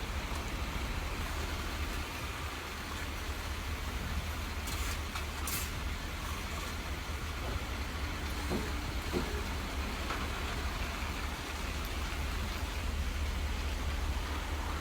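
A heavy truck running: steady engine and road noise, deepest at the low end, with a couple of faint clicks about five seconds in.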